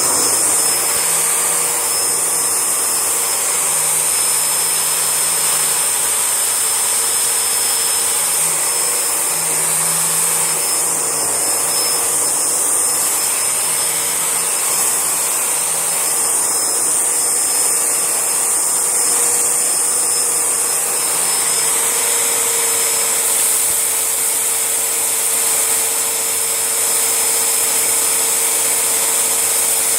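Panasonic MC-E4103 twin-cylinder bagless vacuum cleaner running steadily, with a thin high-pitched whine over the rush of air.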